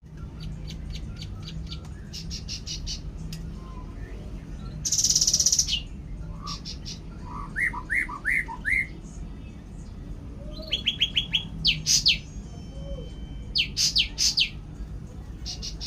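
Songbird calls: quick series of sharp chips, a loud buzzy trill about five seconds in, a run of short rising whistled notes near the middle, then more rapid chip series. A steady low hum runs underneath.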